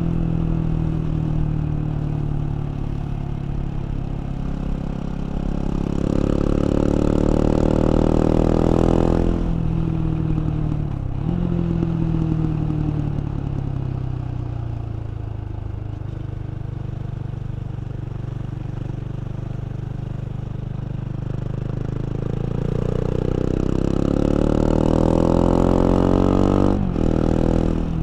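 KTM 690 Duke's LC4 single-cylinder engine under way, revving up hard twice with rising pitch; each climb cuts off abruptly, and in between the revs fall away and hold lower.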